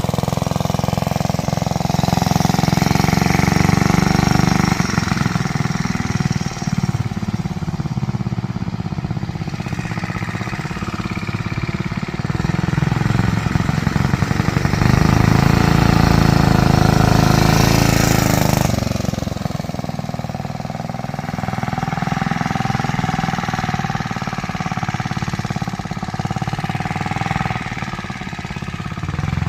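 Continental 175cc Red Seal engine of a 1963 Simplex Compact Sportsman mini bike running, its pitch and loudness rising and falling with the throttle. It climbs to its highest a little past halfway, then drops off abruptly.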